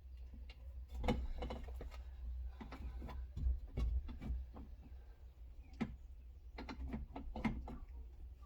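Irregular clicks, knocks and light rattles of hands and tools working on the window regulator inside a car door, over a low steady rumble.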